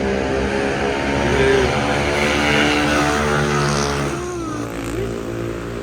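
Road traffic: several vehicle engines running together at a steady level, with a few brief rises and falls in pitch as vehicles pass.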